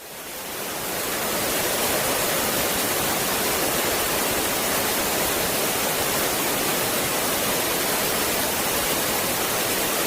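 Heavy rain falling steadily, a dense even rush that fades in over the first second or two.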